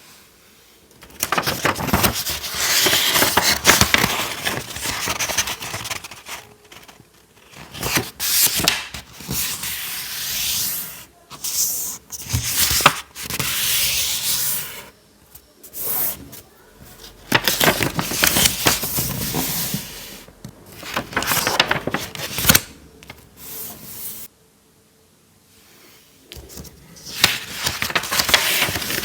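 Paper being handled and folded: crackly rustling and scraping in bursts, with short pauses between them.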